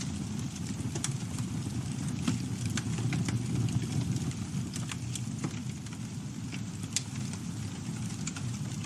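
Campfire burning with a steady low rumble and irregular sharp crackles and pops of burning wood, one louder pop about seven seconds in.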